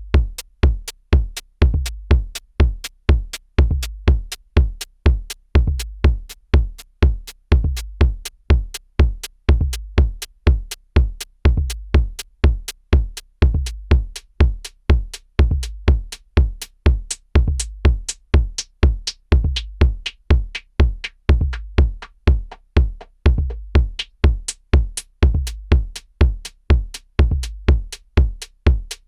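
Korg drumlogue drum machine playing a steady pattern: a deep kick drum about twice a second, with short high hi-hat ticks between the kicks.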